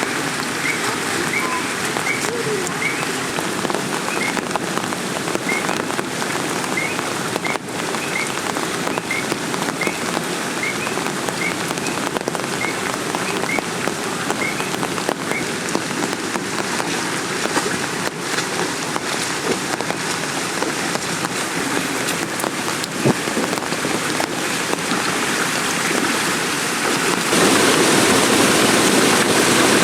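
Heavy rain falling steadily in forest, with a short faint chirp repeating about twice a second through the first half. The rain grows louder near the end.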